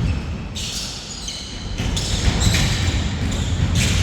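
Basketball bouncing on a court during play, with short high squeaks now and then.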